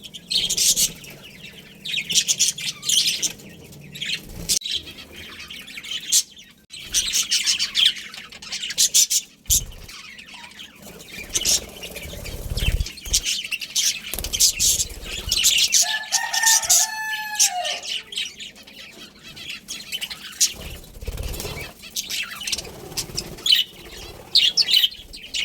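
A colony of budgerigars chattering in repeated bursts of high, rapid chirps, with a few low thumps now and then. About two-thirds of the way through, a short, lower two-note call stands out from the chatter.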